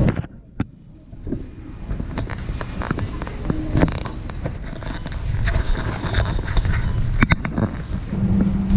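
Motor vehicle running, a steady low rumble that slowly builds, with scattered clicks and knocks.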